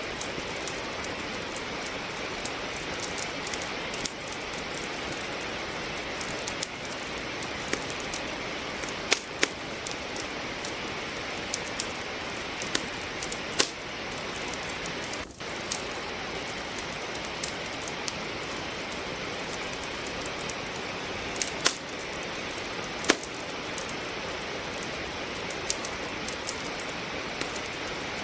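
Steady rain with a wood fire crackling in a fireplace: a constant rain hiss under irregular sharp pops and snaps of burning logs, a few of them louder.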